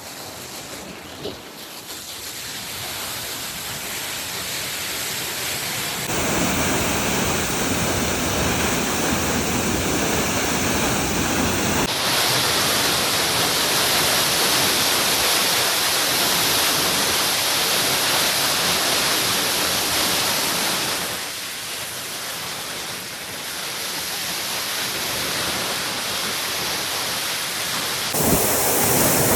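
Waterfall: a steady rush of falling water that grows louder over the first few seconds, then changes in character abruptly several times.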